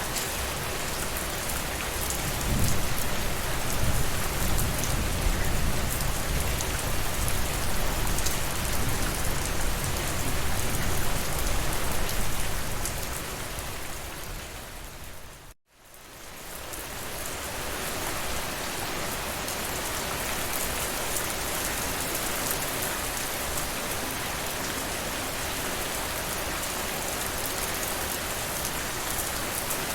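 Steady heavy rainfall, a dense even hiss of drops on surfaces, with a low rumble underneath through the first half. About halfway it fades out to a moment of silence and fades back in as steady rain without the rumble.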